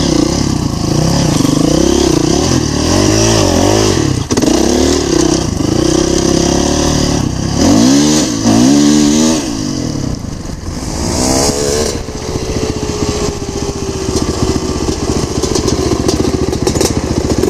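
Dirt bike engine revving, its pitch climbing and dropping again and again as the throttle is worked. After about twelve seconds it settles to a steady pitch.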